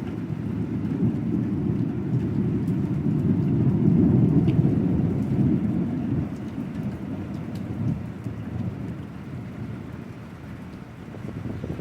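A long roll of thunder that swells over the first few seconds, then slowly dies away, with rain falling throughout.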